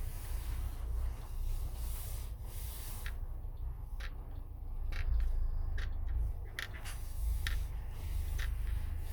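Motorhome on the move, heard from on board: a steady low road rumble with scattered small clicks and rattles.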